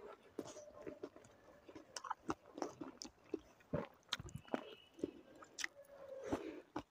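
Faint, close-miked chewing: irregular small wet clicks and mouth noises as a man eats rice and cooked watercress saag by hand.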